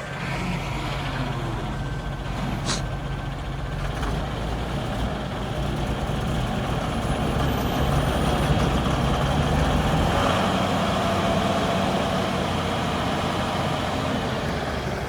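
Army recovery truck's engine running steadily during an attempt to pull a car out of snow, growing a little louder about halfway through. A short click sounds early on.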